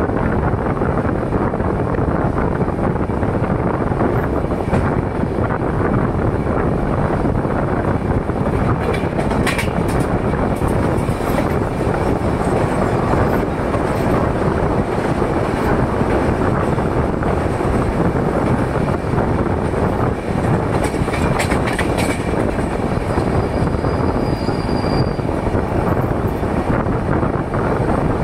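Express train running at speed, heard from aboard: a steady rumble and rattle of the coaches and wheels on the track. There are a few sharp clicks partway through and a brief high squeal near the end.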